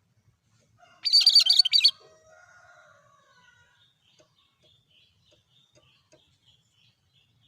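Cucak kerinci calling: one loud, harsh rattling burst lasting just under a second, about a second in, followed by faint soft notes and scattered ticks.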